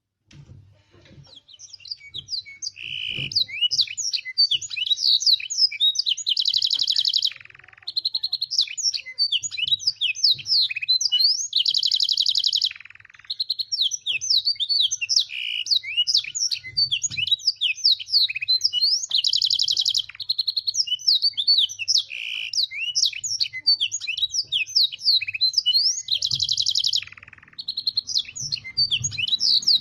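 Domestic canary singing a fast, continuous song of chirps and trills filled in with black-throated canary (blackthroat) phrases. Every several seconds it breaks into a sustained buzzing roll, followed by a short pause. The song builds up over the first couple of seconds.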